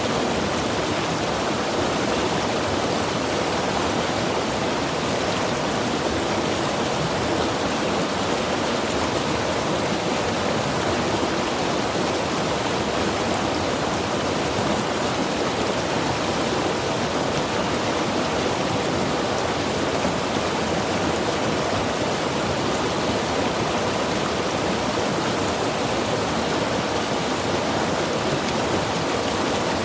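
Mountain river rushing steadily over rocks, a continuous even roar of flowing water with no change in level.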